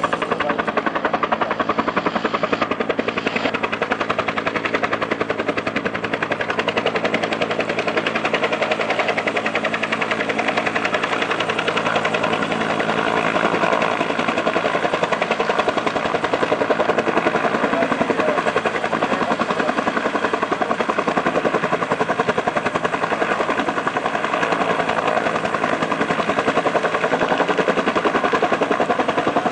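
Firefighting helicopter in flight, its main rotor beating in a rapid, even chop over the steady whine of the turbine engine.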